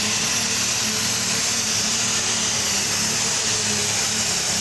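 Turbocharged diesel engine of a super stock pulling tractor running hard and steady: a high turbo whine over a steady low drone.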